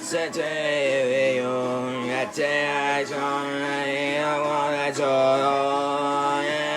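A male voice singing long held notes, with music.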